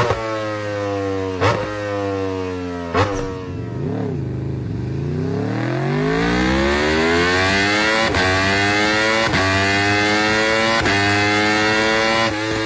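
Superbike engine heard through its exhaust: the revs fall in steps, with a sharp click about every second and a half, then blip once and climb steadily from about five seconds in, held high near the end.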